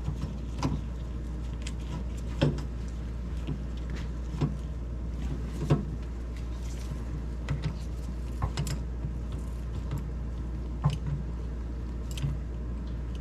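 Irregular clicks and knocks of hand work fitting a replacement ice-maker water valve in a Sub-Zero refrigerator, over a steady low hum.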